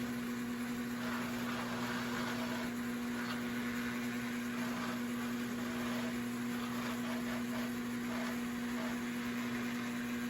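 Lionel Mijack crane accessory's electric drive motor running, a steady electric hum as the crane travels and is realigned on its track.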